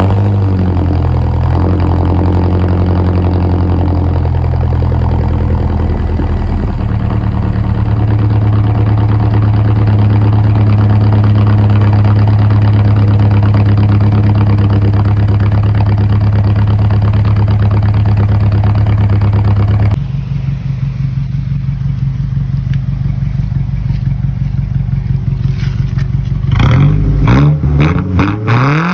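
Exhaust of a 1998 Toyota Tacoma's 2RZ 2.4-litre inline-four through a Carven R muffler, running at a steady idle. The note changes abruptly about two-thirds of the way through, and near the end the engine is revved in rising blips.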